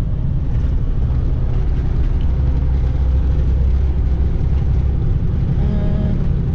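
Semi-truck's diesel engine and road noise heard from inside the cab while driving, a steady low drone.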